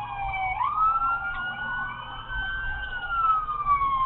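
Police siren on wail: the tone climbs quickly about half a second in, holds high, then slowly falls through the second half, over a low steady vehicle rumble.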